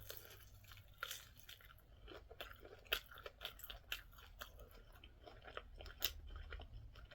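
A person chewing food close to the microphone, with irregular small crunches and mouth clicks.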